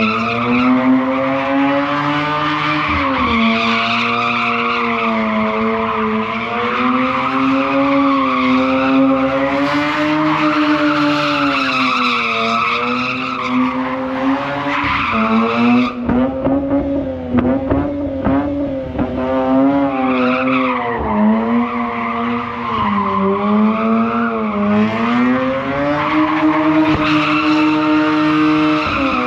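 Mazda RX8's Renesis two-rotor rotary engine held at high revs, its pitch rising and falling, while the tyres squeal in a burnout or drift.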